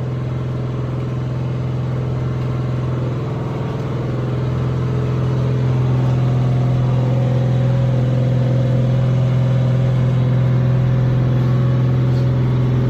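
Small-block Chevy LT1 383 stroker V8 running steadily on an engine dyno, warming up before its first pull. Its pitch holds steady rather than revving, and it gets a little louder about halfway through.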